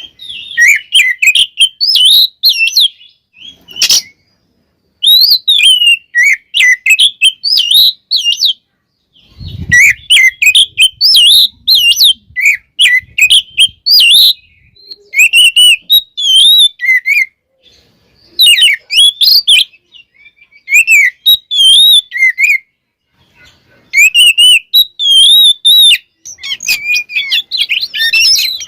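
Oriental magpie-robin (kacer) singing in rapid bursts of varied whistled and chirping phrases, each a second or few long, broken by short pauses. A sharp click sounds about four seconds in.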